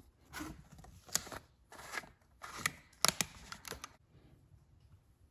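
Handling noises from an oil bottle and funnel at the generator's oil filler: a series of sharp clicks and short scrapes, then it goes quiet about four seconds in.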